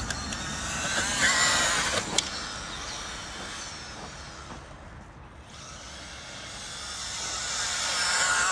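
Small electric RC car motor whining as the car drives about. It comes close and loud about a second in, fades as it drives away, then grows louder again near the end as it comes back. There is a sharp click a little after two seconds.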